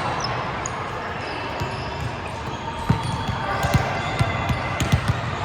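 Indoor volleyball hall din: a steady wash of background voices, with a run of dull volleyball thuds starting about three seconds in, several a second at times.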